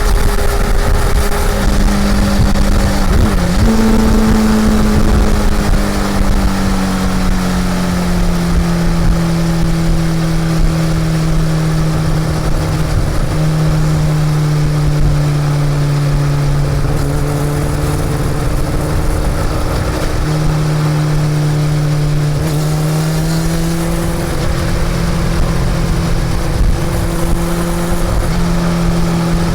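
Honda CB400 Super Four's inline-four engine running under way at a fairly steady speed. Its pitch dips briefly about three seconds in, then eases down and steps back up several times as the throttle changes, rising again near the end.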